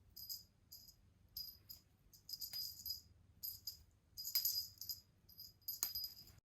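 A small bell jingling faintly in short, irregular shakes, about eight times.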